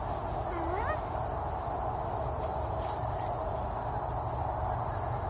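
Steady insect chorus: a high pulsing trill over a denser lower drone, with one short rising call about half a second in.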